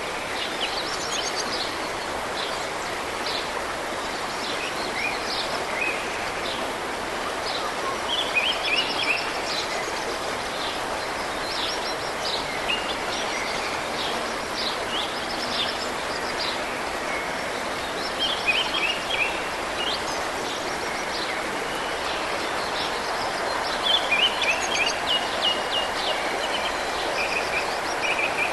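Steady rush of fast-flowing mountain river water, with a songbird singing short chirping phrases every few seconds.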